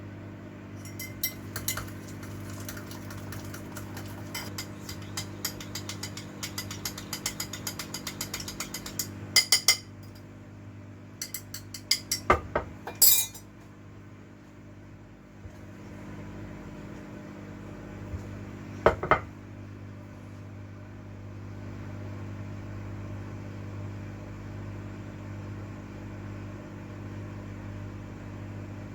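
Kitchen handling sounds: a fast run of small clicks for the first several seconds, then a few louder knocks and clinks, one last one well into the second half, over a steady low hum.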